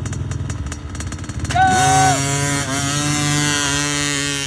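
Small youth dirt bike engine idling, then revved hard about a second and a half in for a gate start and held at high revs.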